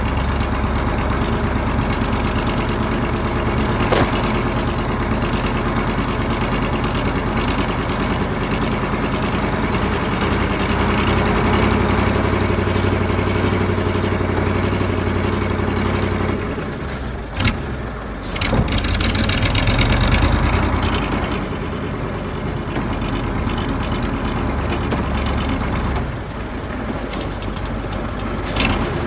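1985 KAMAZ 4310 6x6 truck's V8 diesel engine running steadily. About sixteen seconds in the engine note dips, with a few sharp clicks and knocks, then picks up again.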